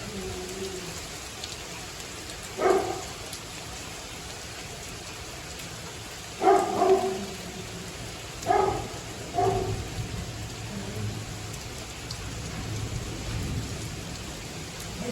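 Steady rain falling on surfaces during a thunderstorm, with a low thunder rumble building in the second half. Five short, sharp, loud sounds stand out over the rain in the first ten seconds.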